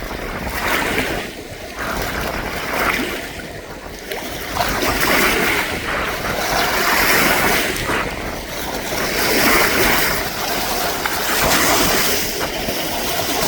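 Strong wind blowing in gusts, a rushing noise that swells and fades every few seconds.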